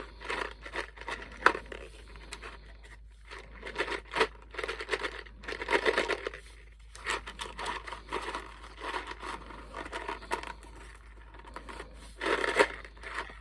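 Candy packaging for Big Chewy Nerds being torn open and handled, with irregular crinkling and rustling.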